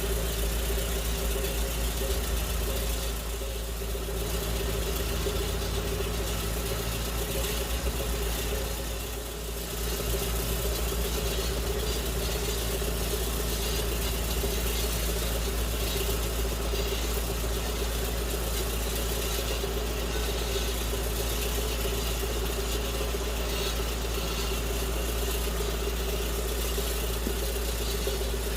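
Tractor engine running at a steady speed while spreading fertilizer, with a constant hum, dipping briefly about nine seconds in.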